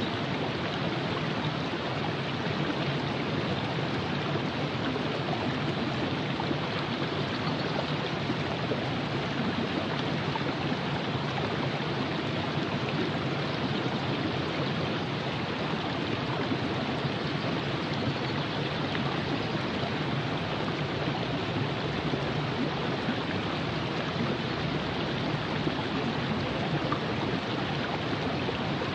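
River water flowing over rocks: a steady rushing and gurgling that holds at the same level throughout.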